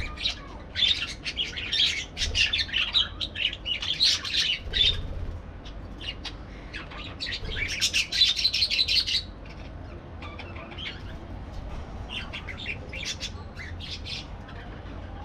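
Parakeets chirping and chattering in quick, overlapping calls. The chatter is busiest in the first five seconds and again around eight seconds in, then thins to scattered chirps.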